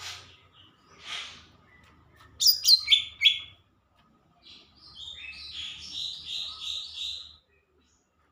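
Cucak ijo (green leafbird) singing: a few short calls, then four loud descending notes about two and a half seconds in, then a quick run of about eight repeated notes that stops near the end.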